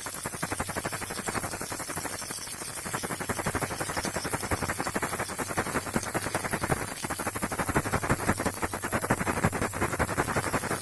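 Baby rattle shaken rapidly and without pause, a dense stream of small clicks.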